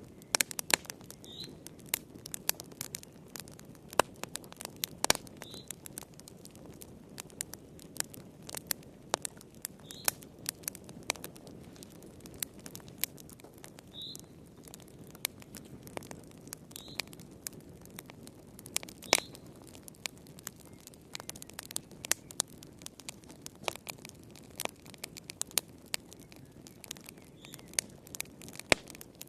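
Fire crackling: irregular sharp pops and snaps over a soft low rush of flame, with now and then a brief faint high squeak.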